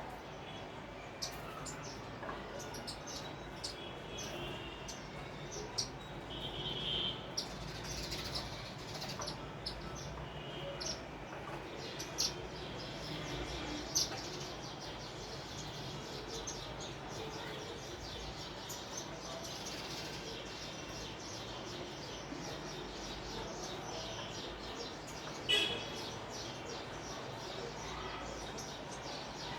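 Sparrows chirping: many short, high chirps scattered throughout, a few standing out louder, over a faint steady low hum.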